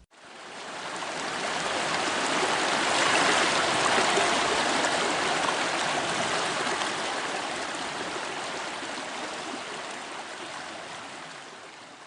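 A steady rushing noise, like running water, that swells up over the first couple of seconds and then slowly fades away.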